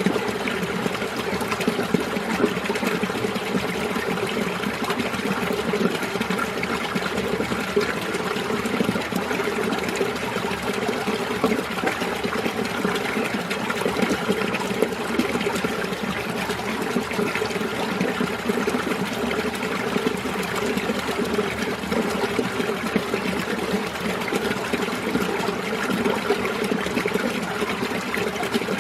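Winter mountain stream flowing steadily, water trickling and splashing over rocks.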